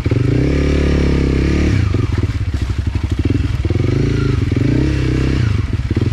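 Enduro dirt bike engine revving hard and unevenly, its pitch rising and falling as the throttle is worked.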